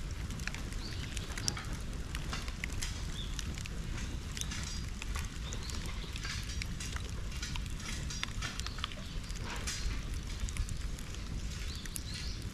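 Bonfire burning, crackling with frequent sharp snaps and pops over a low steady rumble.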